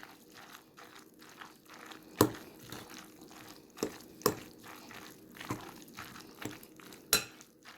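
Dressed cold spaghetti salad being stirred in a bowl: soft, irregular wet squelching, with a few sharp clicks, the loudest about two seconds in and near the end.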